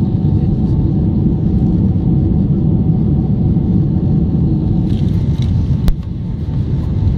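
Airliner engines and airflow heard from inside the passenger cabin: a loud, steady low rumble with a faint steady hum. A single sharp click comes near the end, and the rumble briefly drops after it.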